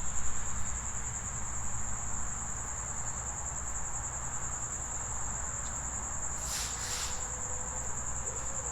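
Crickets trilling steadily in one continuous high-pitched chorus, over a low rumble of road traffic.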